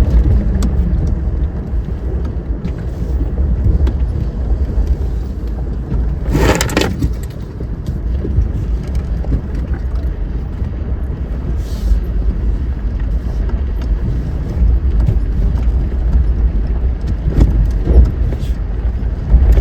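A vehicle driving on a dirt track, heard from inside: a steady low rumble of engine and tyres, with a sharp clatter about six and a half seconds in and a few lighter knocks later.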